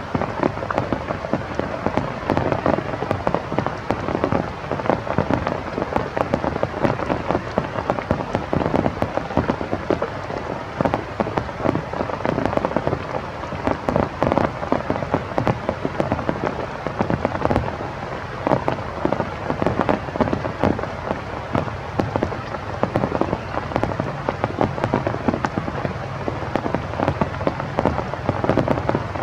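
Steady rain, a dense patter of drops hitting a surface.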